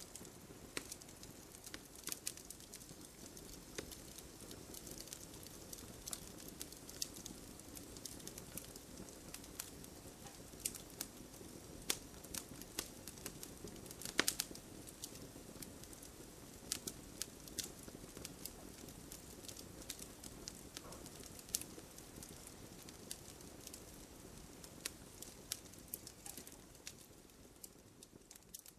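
Wood fire crackling: irregular sharp pops and snaps over a soft, steady hiss of burning, with a louder cluster of pops about 14 seconds in.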